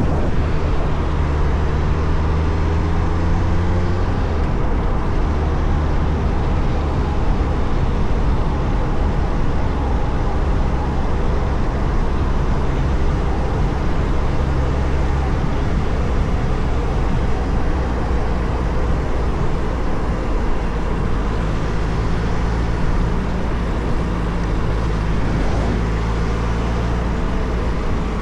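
Suzuki Hayabusa's inline-four engine running steadily under way, with wind and road rush over it; the engine note drops about four seconds in, then holds steady.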